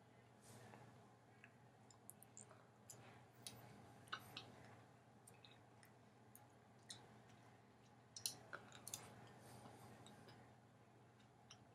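Near silence with faint, scattered clicks and chewing as someone eats peaches from a jar with a fork.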